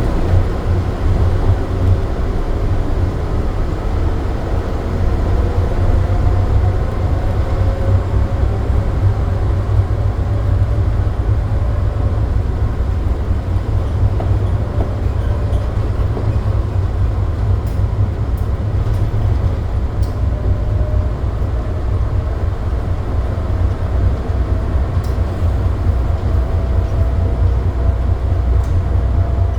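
The SFO AirTrain automated people mover heard from inside the car while it moves: a steady low rumble, with a faint whine that slowly shifts in pitch.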